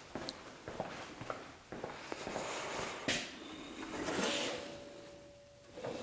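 Hand tools on the band saw's lower wheel nut: scattered light metallic clicks and knocks, a brief scraping swell about four seconds in, and a faint thin steady tone lasting about a second and a half near the end.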